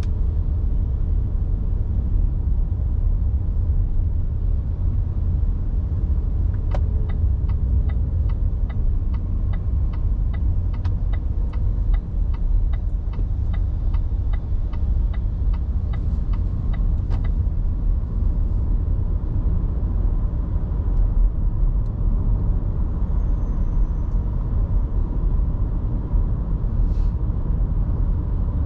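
Car driving on a road: a steady low rumble. About a third of the way in, a regular ticking of about two and a half clicks a second starts and runs for roughly ten seconds.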